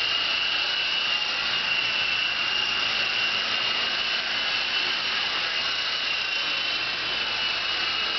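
Small RC helicopter in flight: its electric motor gives a steady high-pitched whine over the whir of the rotor blades, the pitch holding nearly level throughout.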